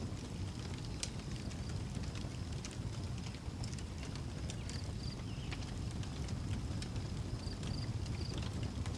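Wood fire crackling, with scattered sharp pops over a low steady rumble. Crickets chirp in short, regular high pulses from about halfway through.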